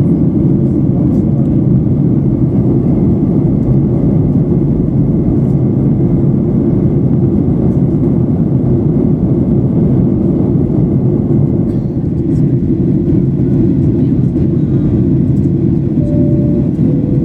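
Steady low rumble inside the cabin of a Boeing 737-800 in flight: CFM56 engine and airflow noise, even and unchanging.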